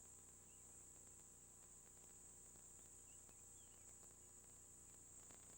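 Near silence, with a faint, steady high-pitched insect drone like crickets and a low hum underneath.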